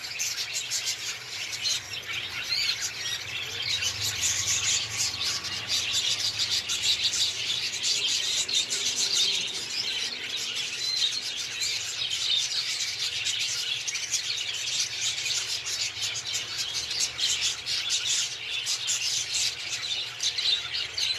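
Cockatiels chirping and chattering without a break, many short overlapping calls.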